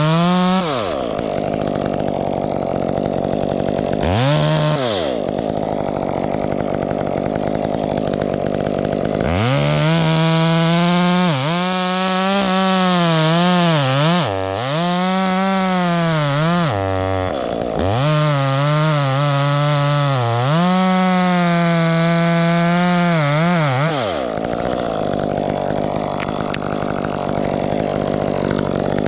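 Two-stroke chainsaw blipped up and down, then held at full throttle through a long cut into wood from about ten seconds in, its pitch dipping again and again as the chain loads up in the cut. Near the end it drops back to lower revs.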